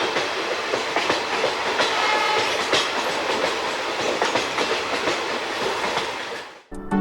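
Running noise of a passenger train's ICF coach on the move, with the clickety-clack of wheels over rail joints as a steady stream of clicks. It fades and cuts off near the end as music comes in.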